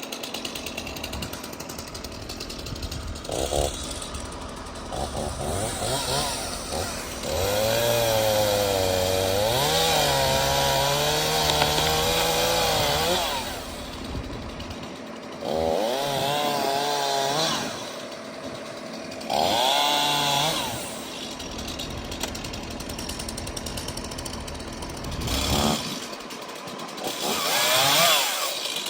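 Gas chainsaw idling and revved up in several bursts, the longest lasting about five seconds, its pitch wavering under load as it cuts through a storm-fallen tree. The last burst rises in pitch near the end.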